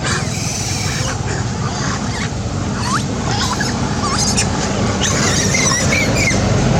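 Baby monkey giving short high squeaks and rising chirps, several in quick succession in the second half, over a steady low rumble.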